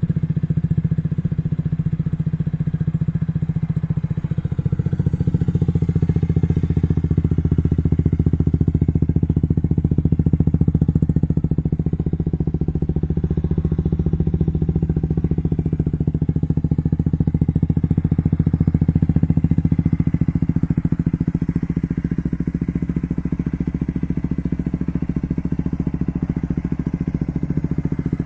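2017 Honda Rebel 250's single-cylinder engine idling steadily through an aftermarket custom muffler.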